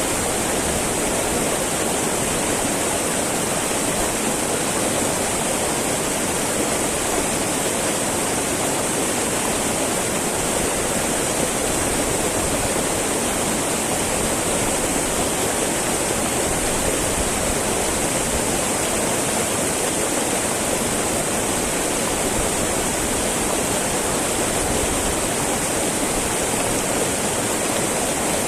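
Small mountain river babbling and rushing over rocks: a steady, unbroken water noise with a strong hiss.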